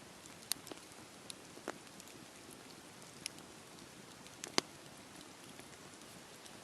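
Steady hiss of rain on a campfire, with scattered sharp crackles and pops at irregular moments, the loudest pop about four and a half seconds in.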